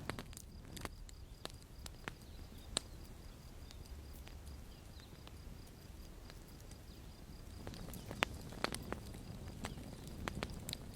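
Campfire crackling: irregular sharp snaps and pops over a soft low rumble of burning, with a louder pop about three seconds in and another about eight seconds in.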